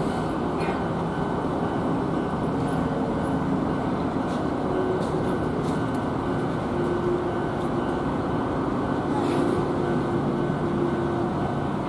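Hanshin 9000-series electric train running at a distance: a steady running noise with a faint wavering hum.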